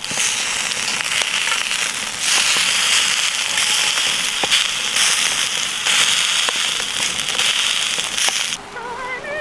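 Pork belly sizzling and popping over a wood fire: a dense, loud hiss with scattered sharp crackles that stops suddenly near the end.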